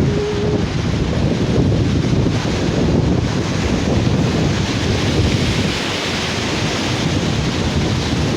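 Sea surf washing onto a beach, with wind buffeting the microphone in a steady low rumble.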